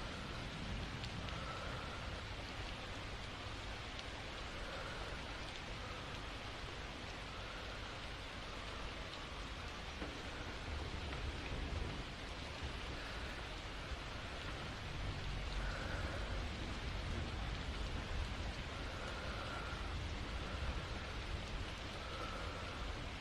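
Steady rain falling, an even patter that swells slightly in the second half.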